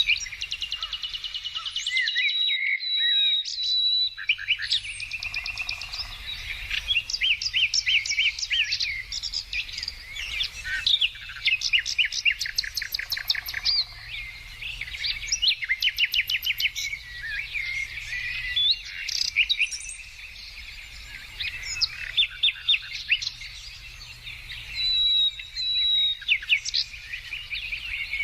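Several songbirds singing at once, with rapid trills and quick repeated chirps overlapping continuously.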